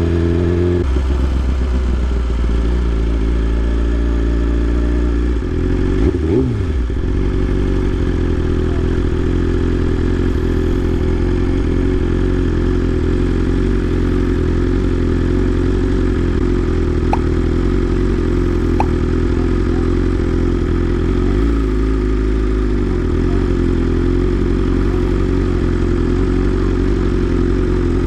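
BMW S1000RR's inline-four engine with an aftermarket exhaust running steadily at low revs, with one quick throttle blip about six seconds in.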